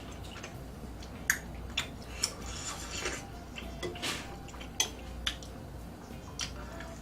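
Eating utensils clicking against dishes: a handful of sharp, separate clicks with short scraping sounds between them, over a low steady hum.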